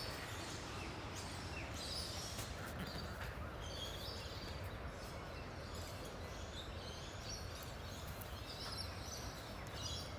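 Outdoor ambience: a steady low background rumble with birds chirping on and off throughout.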